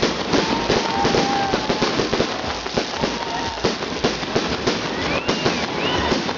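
Fireworks salute going off: many bangs and crackles in rapid, irregular succession.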